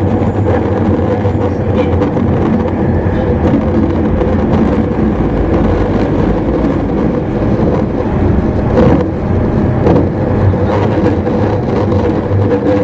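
Running noise inside an E259 series Narita Express motor car: a steady rumble of wheels on rail with a constant hum from the drive. Two brief knocks come about nine seconds in and again a second later.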